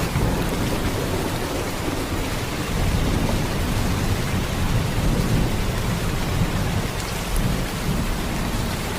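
Heavy rain falling in a steady downpour, with a deep low rumble underneath.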